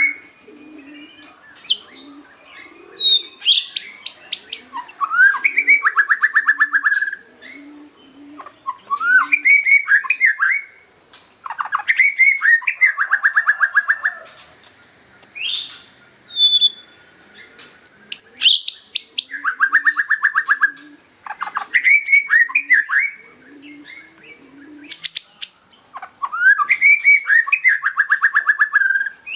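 A young white-rumped shama, just out of its juvenile spotted plumage, singing the same short phrase over and over, about every three seconds: a few rising whistles, then a fast rattling trill.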